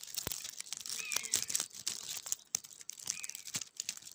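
Dry twigs and nest material crackling and snapping as they are handled close by. Two short high calls come through about a second in and again near the end, from the nestlings, which the man takes for hawks.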